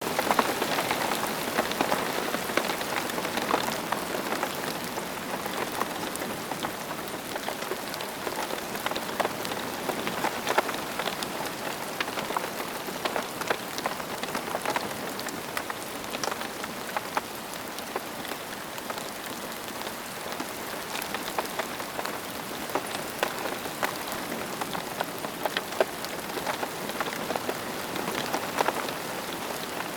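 Steady rain falling on a surface, a constant hiss dotted with many individual drops ticking.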